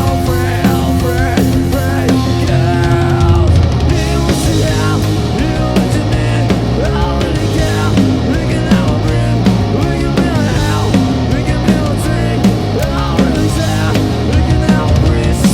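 A live rock band playing loudly in a grunge style, with a drum kit keeping a steady beat under pitched parts that bend up and down.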